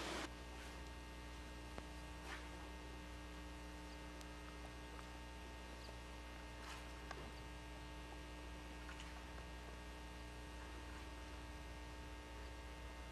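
Faint, steady electrical hum, with a few faint clicks scattered through it.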